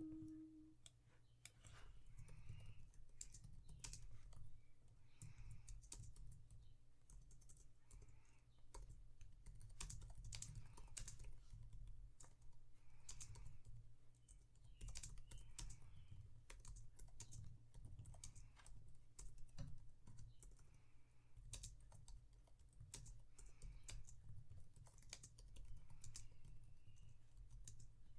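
Faint typing on a computer keyboard: irregular runs of keystrokes over a low, steady background hum.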